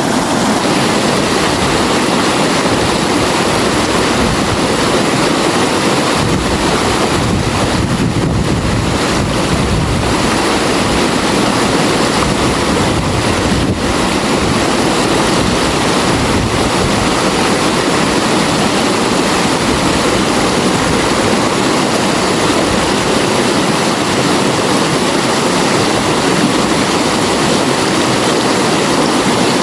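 River water flowing steadily, a continuous even rushing without breaks.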